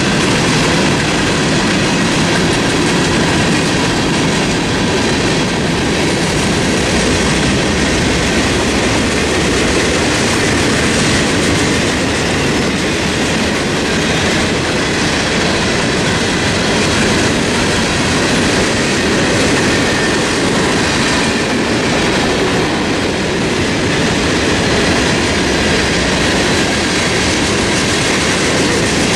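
Cars of a long freight train rolling past at close range: a steady, loud rumble and rattle of steel wheels on the rails that does not let up.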